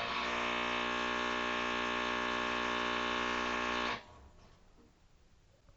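Electric rotary hammer (perforator) motor running at a steady pitch for about four seconds, then cutting off suddenly.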